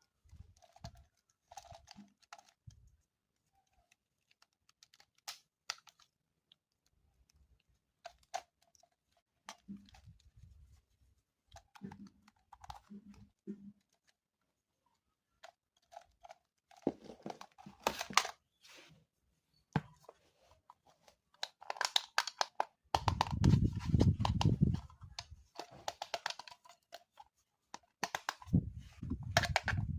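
Irregular handling noises of unboxing: packaging crinkling and tearing, with scattered clicks and knocks. The handling grows busier in the second half, with heavier thuds and rubbing a few seconds before the end.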